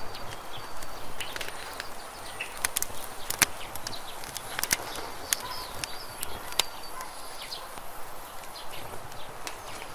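Wood campfire crackling, with sharp irregular pops and snaps over a steady hiss.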